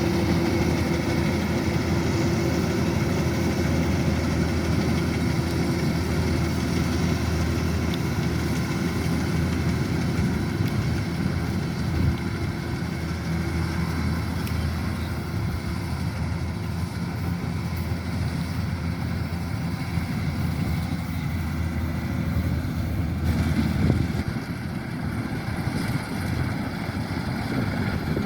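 Kubota DC-105X rice combine harvester running steadily at work, its diesel engine and threshing machinery making a continuous hum that eases slightly near the end.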